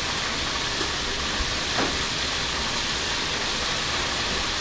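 Ground meat with onions, bell pepper and jalapeño sizzling steadily as it fries in a pan, with a light knock about two seconds in.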